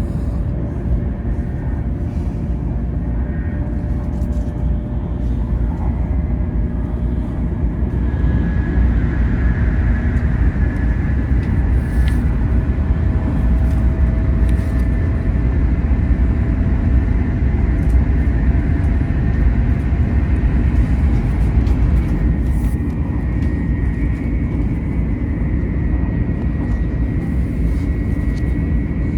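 Steady running noise of a Taiwan High Speed Rail bullet train heard from inside the cabin at speed. It is a deep, even rumble with faint thin tones that drift slowly in pitch.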